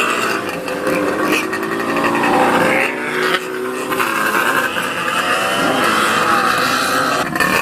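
Classic motorcycle engines running, their pitch rising and falling as they are revved.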